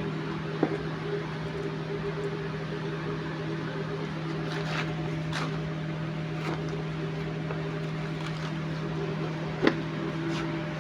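A steady machine hum with a few light clicks.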